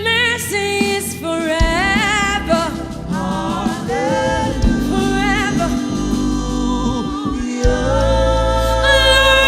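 Gospel worship music: voices singing held, wavering notes over steady low instrumental accompaniment.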